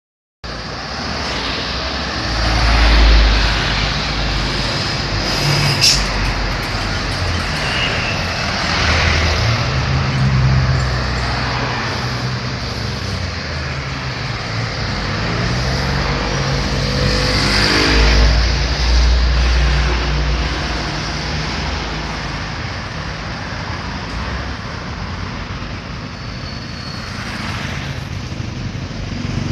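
Road traffic at a traffic-light junction: a steady mix of car, motorcycle and truck engines running, with heavy vehicles rumbling past about three seconds in and again past the middle. Engines rise in pitch as vehicles pull away, and there is a sharp click near the six-second mark.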